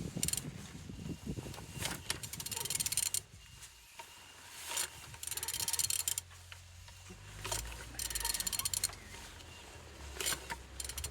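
An Opel A18XER 1.8-litre petrol engine being turned over by hand with a ratchet wrench on the crankshaft, the rapid ratchet clicking coming in several spells. It turns freely, which is taken as a sign of a healthy engine.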